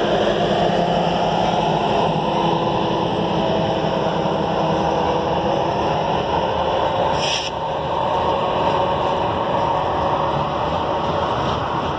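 Freight train autorack cars rolling past, their steel wheels on the rail making a steady rumbling noise. The hum of the departing diesel locomotive fades out in the first few seconds, and a brief high hiss comes about seven seconds in.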